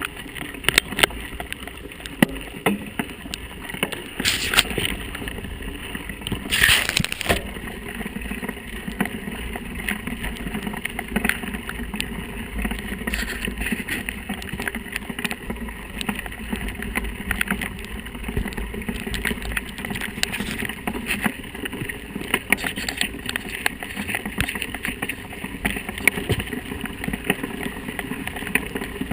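Mountain bike riding over rough ground: a steady stream of small rattles and knocks from the bike, over a low rumble of wind on the microphone. A brief louder hiss comes about seven seconds in.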